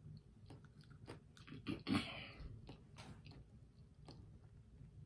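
Close-up chewing and mouth sounds of a person eating a ketchup-dipped French fry, with scattered small clicks and one louder bite about two seconds in.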